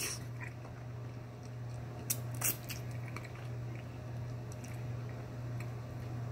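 Faint chewing with a few scattered sharp mouth clicks over a steady low hum.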